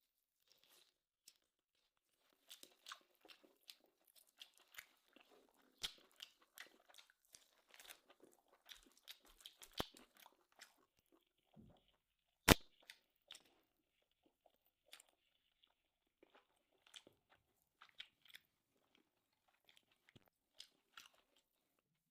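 Faint chewing and crunching of grilled tomahawk steak, with many small mouth clicks and crackles. One sharp, louder click comes about halfway through.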